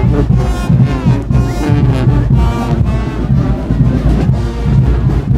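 A carnival brass band, Swiss Guggenmusik style, playing loudly: trombones and trumpets sounding held and shifting notes over a steady drum beat.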